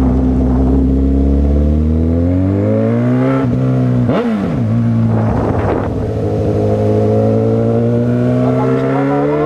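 Honda CB1000R's inline-four engine accelerating under way. The revs rise, dip sharply about four seconds in at a gear change, then hold steady and climb slowly again.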